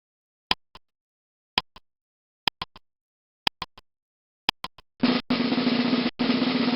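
Percussive sound effect: five sharp ticks about a second apart, each followed by one or two fainter echoes, then a loud rattling buzz with a steady low hum lasting about two seconds, broken twice for an instant.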